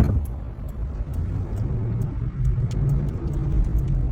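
Car being driven: a steady low rumble of engine and road noise, with a few faint ticks.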